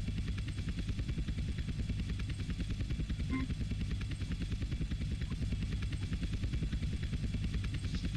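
A vehicle's engine running steadily with a fast, even pulse, heavy in the low end. There is a short pitched tone about three seconds in.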